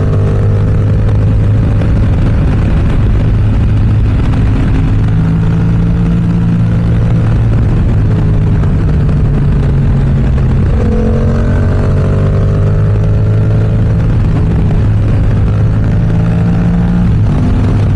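Yamaha R7's 689 cc parallel-twin engine running through an aftermarket M4 exhaust while riding at road speed. The engine note holds fairly steady, with slight rises and falls in pitch.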